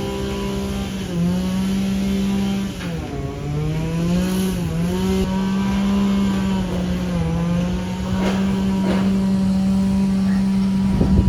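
An engine running close by at a steady pitch that dips and recovers a few times, with a few sharp ticks near the end.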